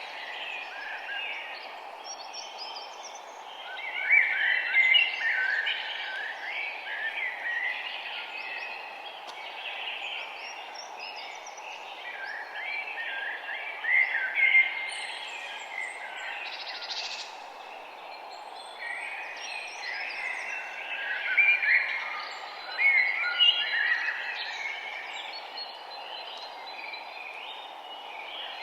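Several songbirds chirping and singing over one another, in bouts that swell and fade, over a steady background hiss.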